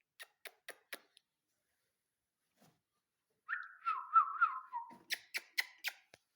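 Indian ringneck parrot whistling one short warbling phrase that wavers up and down, set between two runs of sharp clicks: a few near the start and a quicker run of about five near the end.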